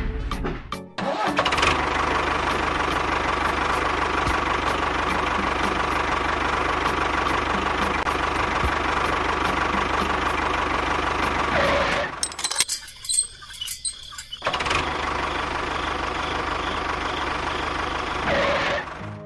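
A small motor running steadily. It cuts out for about two and a half seconds, starts again, and stops near the end.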